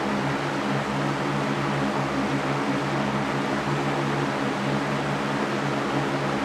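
Electric fan running steadily: an even rushing hiss over a low, constant motor hum.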